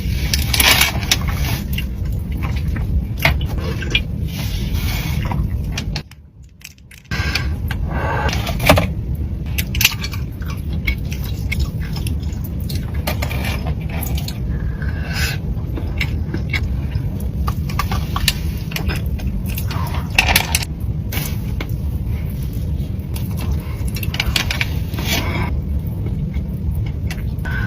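Steady low rumble with brief scraping and rustling noises now and then; the sound drops out for about a second around six seconds in.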